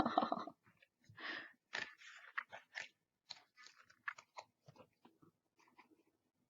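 Paper and card being handled: scattered crinkles and light crackling ticks, thinning out and growing fainter toward the end.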